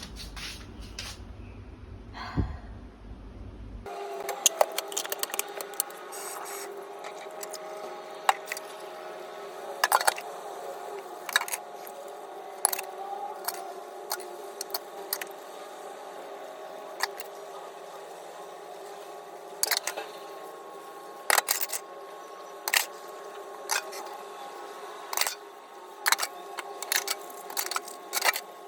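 Steady mechanical hum with several held tones, broken by many short sharp clicks and clinks at irregular intervals; it starts abruptly about four seconds in, after a brief low rumble.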